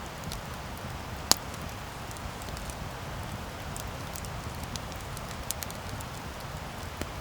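Wood campfire burning, crackling with scattered small pops and one sharp, loud pop about a second in, over a steady low rumble.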